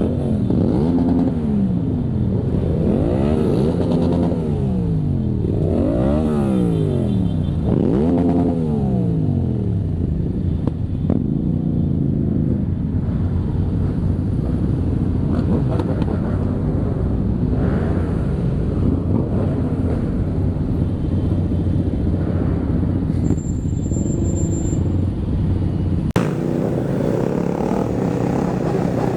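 Motorcycle engines revving up and down over and over, about every two seconds, then settling into a dense, steady din of many motorcycles running together. The sound changes abruptly about three seconds before the end.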